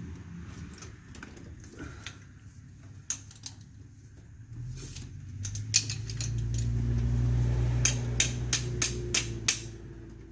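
Hand tools clicking and tapping against metal drum brake parts: scattered clicks, then a quick run of about six sharp taps in the second half, over a low rumble that swells and fades.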